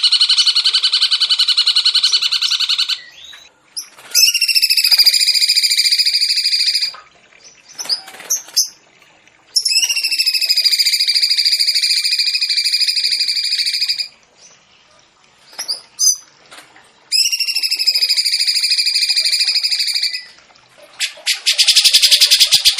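A songbird giving long, rapid, buzzy trills of about three seconds each, four times with short pauses between them, and faint chips in the gaps; near the end a different, faster pulsed trill starts.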